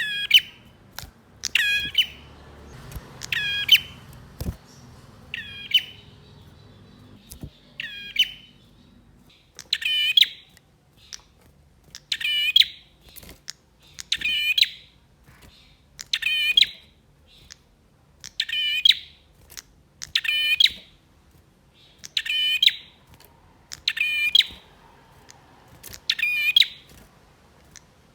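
A male prenjak (prinia) singing repeatedly: a short, sharp call given about every two seconds, around fourteen times, in a steady insistent rhythm.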